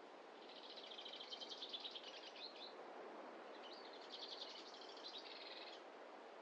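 A small songbird singing two rapid trilled phrases, each about two seconds long, separated by a short pause, over a faint steady background hiss.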